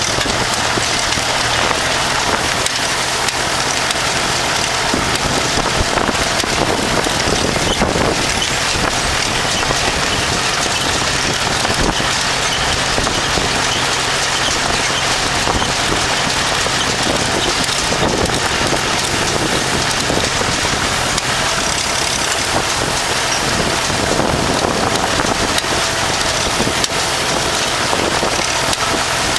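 Steady noise of wind on the microphone over a tractor engine running at a steady pace.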